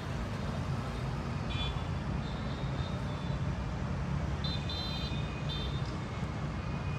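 Distant city traffic as a steady low rumble, with a few short high-pitched tones about a second and a half in and again from about four and a half to five and a half seconds in.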